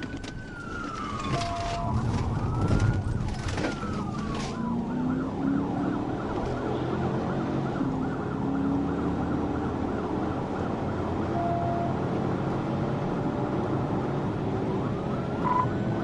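Police patrol car siren sounding a slow rising and falling wail, switching about five seconds in to a rapid yelp and back to a wail near the end. Underneath, the car's engine runs and climbs in pitch as it accelerates during the pursuit.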